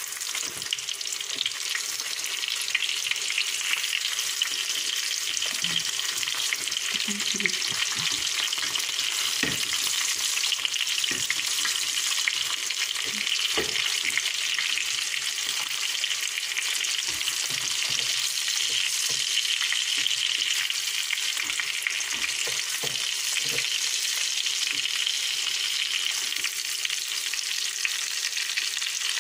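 Salmon fillets frying in hot fat in a pan: a steady sizzling hiss with scattered pops and crackles, over a faint steady hum.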